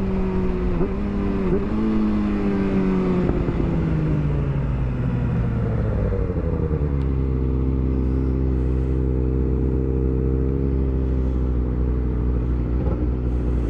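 Motorcycle engine running. It dips briefly a couple of times early on, then falls in pitch over a few seconds as the bike slows, and settles into a steady idle from about halfway through.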